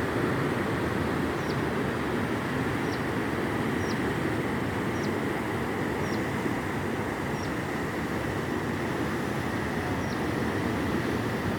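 Steady rumble of a motorcycle ride, engine and wind noise on the microphone, with a faint short high chirp recurring every second or so.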